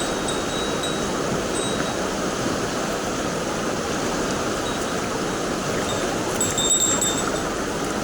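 Steady rush of river water. Brief thin high whistling tones come near the start and again about six and a half seconds in.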